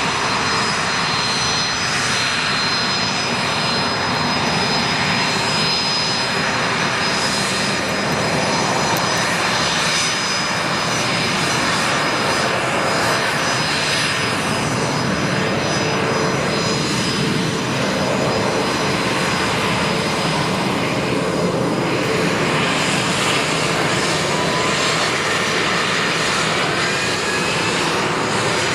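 Bombardier Challenger 605's twin GE CF34 turbofan engines running steadily, a loud, even jet noise with high whining tones.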